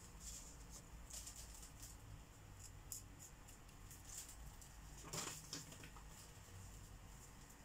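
Faint felt-tip marker tip scratching on paper in short strokes, with a slightly louder stroke about five seconds in.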